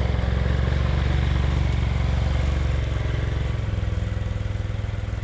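A motor vehicle's engine running steadily with a fast, even pulse, slowly growing a little quieter.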